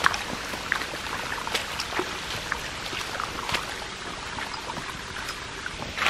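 Waterfall water splashing and trickling over rock, with many irregular sharp taps and clicks through it.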